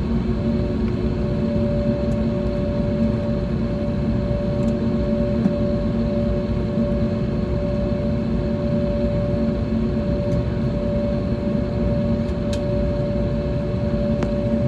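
Steady cabin drone inside an Airbus A321neo on the ground after landing: a low rumble with a few steady hum tones, with faint clicks here and there.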